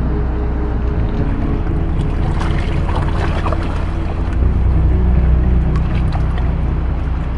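Flooded river water rushing and splashing, under slow, sustained background music whose chords change about a second in and again about four seconds in.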